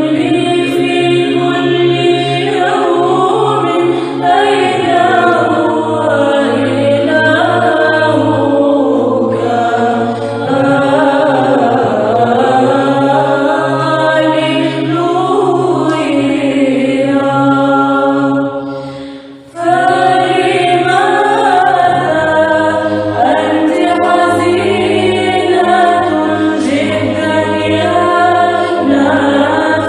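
Women's choir chanting a Byzantine psalm a cappella: a melody sung over a steady held low drone (ison), with a brief pause a little past the middle before the voices come back in.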